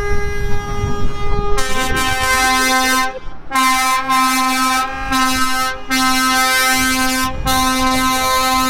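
Truck air horns blowing: one horn held steadily, then a second, lower-pitched horn joins about a second and a half in and sounds in long blasts with brief breaks.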